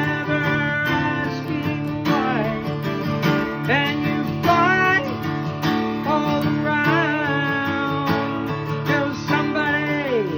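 Acoustic guitar played solo, strummed and picked, with sustained chords and notes that bend and waver.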